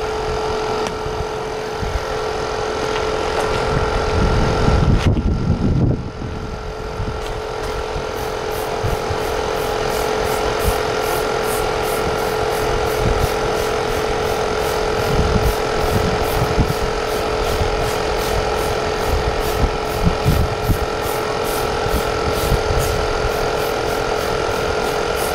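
A motor running steadily with a constant hum, with a louder rushing noise about four to six seconds in.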